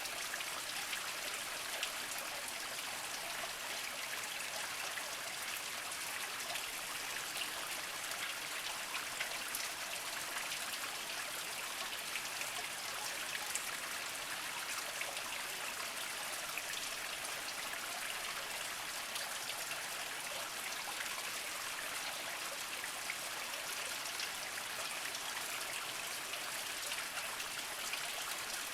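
Small spring water trickling and splashing over mossy rocks in a steady, even flow, with many small drips.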